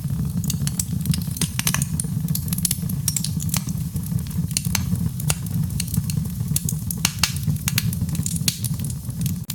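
Wood fire burning in a fireplace, crackling and popping with many irregular sharp snaps over a steady low rumble.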